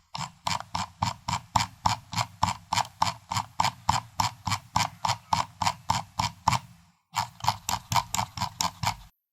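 Computer mouse scroll wheel being turned steadily, its notched wheel clicking about six times a second. The clicks pause briefly about seven seconds in, then resume and stop shortly before the end.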